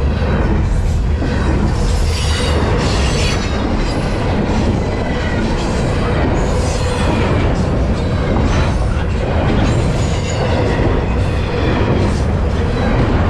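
Loaded double-stack container well cars of a freight train rolling past at close range: a loud, steady rumble of steel wheels on the rails, with high-pitched wheel squeal coming and going.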